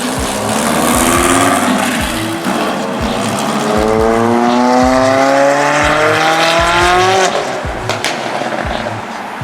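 A car engine accelerating hard, its revs climbing, then climbing again and cutting off sharply about seven seconds in. Background music with a steady beat plays throughout.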